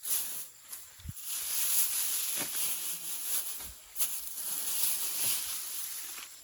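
Rustling and swishing of rice stalks being cut and handled by hand, coming in several swells, with a few soft thumps.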